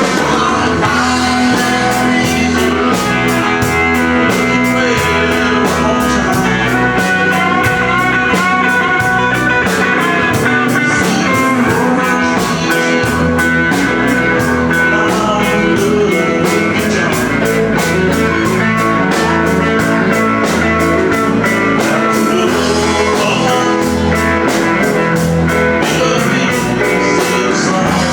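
Live country-rock band playing with electric guitars, bass and drum kit at a steady beat.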